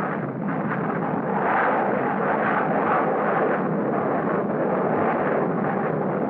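Aircraft engine noise, a steady rushing sound with no clear pitch.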